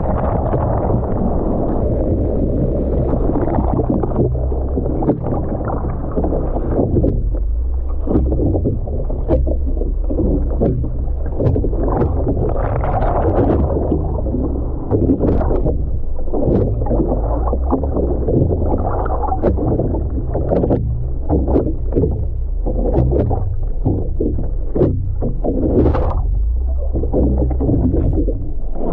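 Seawater splashing and sloshing close to the microphone in the surf, over a steady low rumble, with many short irregular splashes.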